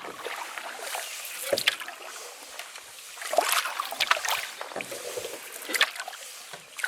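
Canoe paddles stroking through shallow, swampy water: irregular splashes and drips, every second or so, over a quiet outdoor background.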